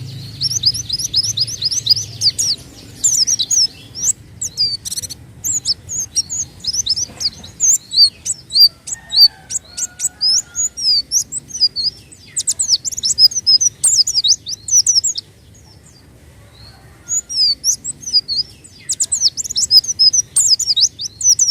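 White-eye (pleci) singing: rapid runs of thin, high-pitched chirps and trills. The song breaks off for about two seconds roughly two-thirds of the way through, then resumes.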